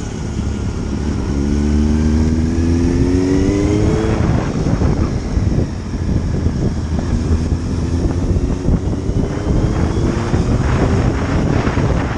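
Motorcycle engine accelerating, its pitch climbing twice with a break between, over wind noise on the microphone.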